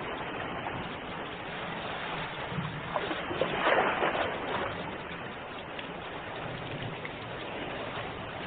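Ocean surf: a steady wash of waves, with one wave breaking louder a little after three seconds in and fizzing away over about a second.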